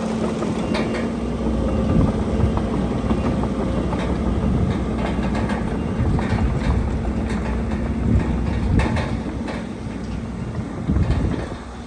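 Heavy diesel earthmoving machinery at work: a steady engine rumble with scattered clanks and knocks, typical of a bulldozer's steel tracks and rock being pushed.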